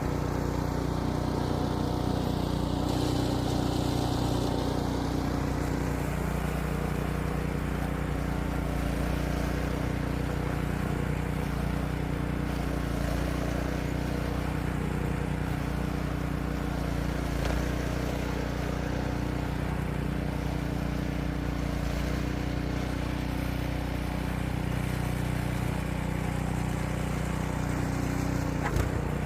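An engine running steadily at an even speed, with one short knock near the end.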